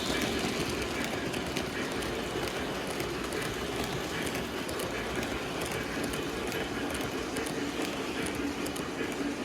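O scale three-rail model train running on the track: a steady rolling rumble with light clicks as the wheels pass over the rails.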